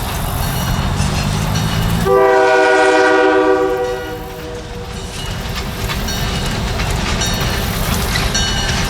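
Diesel freight locomotive sounding its air horn in one blast of about two seconds, starting about two seconds in, over the rumble of the train; after the horn, steady rolling noise and clatter of the train on the rails.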